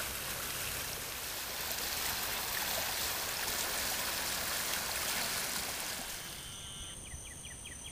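Stormwater runoff rushing steadily through flooded roadside ditches and drains after a tropical storm. The rushing fades near the end, and insects start chirping rapidly.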